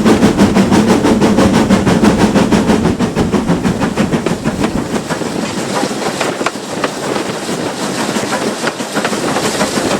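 Steam train running past with a rapid, even beat, loud at first and fading away from about halfway.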